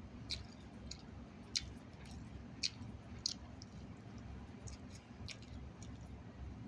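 Close-up chewing of chicken salad and pita bread: faint wet mouth clicks and smacks, roughly one a second, over a low rumble.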